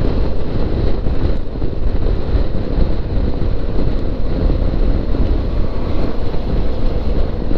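Steady wind rumble on a microphone during a motorcycle ride, with the motorbike's running noise underneath.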